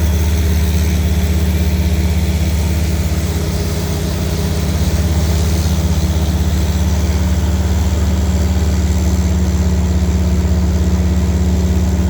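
Fire truck engines running steadily with a loud low drone, dipping slightly about four seconds in.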